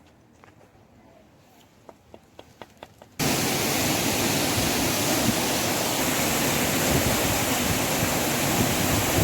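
A few faint clicks over quiet background, then, from about three seconds in, the loud steady rush of a waterfall.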